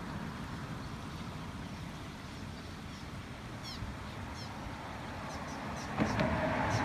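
Steady outdoor rushing noise with a small bird chirping several times in short, falling notes in the second half. The rush grows louder about six seconds in.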